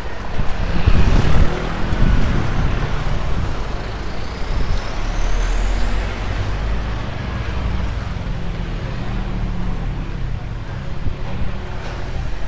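Street traffic: motor vehicles passing close by, one loudest about a second in, over a steady road rumble.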